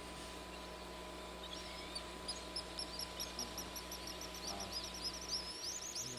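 A bird singing a rapid run of repeated high chirps, about five a second, starting about a second and a half in, over a faint steady hiss.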